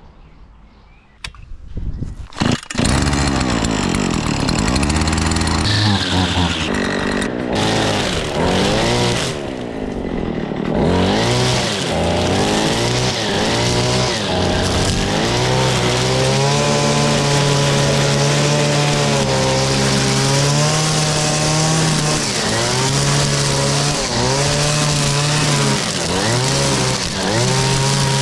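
Tractor engine starting about two seconds in after a few clicks, then running loudly, its pitch rising and falling again and again as the revs change.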